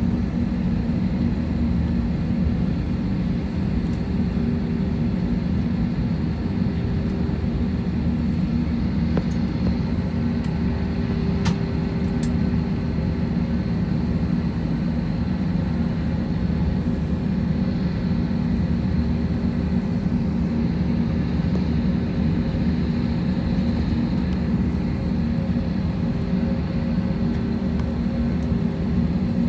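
Steady cabin drone of an Airbus A321-231 on the ground, its IAE V2500 engines at idle, with the air-conditioning hum and several steady tones. The level holds even with no spool-up. Two sharp clicks come close together near the middle.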